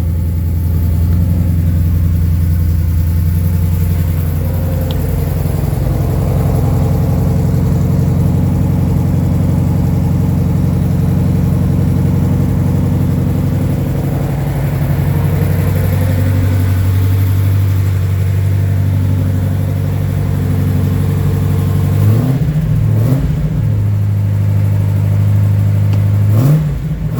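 Ferrari Daytona's V12 exhaust running at a fast cold idle on its automatic choke. The engine has just been started from cold. It holds a steady idle for most of the time, then is revved briefly a few times near the end.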